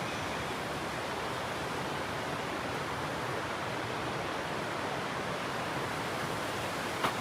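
Steady rushing of a waterfall, an even roar of falling water. A single short click near the end.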